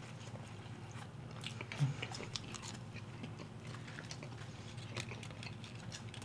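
Faint biting and chewing of McDonald's chicken nuggets as two people eat quickly, with scattered small clicks and smacks. There is one brief low hum about two seconds in.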